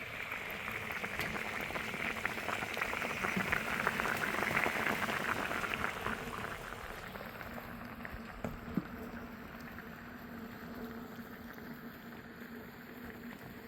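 Water bubbling and splashing, a dense crackle of small drops that grows louder and then eases off about halfway through, over a faint steady low hum.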